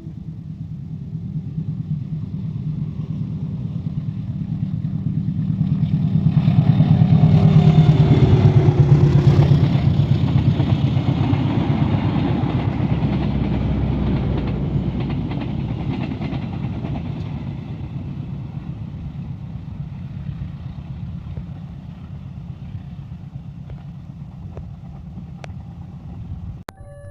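KAI CC203 diesel-electric locomotive hauling a passenger train past: a low engine rumble that grows to its loudest about seven to ten seconds in, with a falling tone as it goes by, then the noise of the train fading slowly as it moves away.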